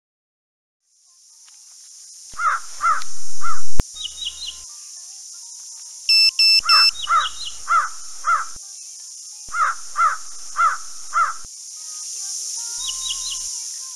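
Cawing birds calling in runs of three or four harsh, falling calls, over a steady high-pitched buzz. A few short high chirps come between the runs. A brief cluster of electronic beeps sounds about six seconds in, and a louder sound swells and cuts off abruptly near four seconds.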